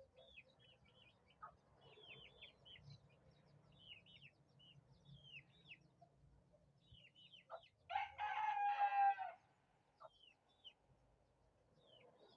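A rooster crows once, loudly and briefly, about eight seconds in. Repeated short, high, falling chirps from small birds run underneath.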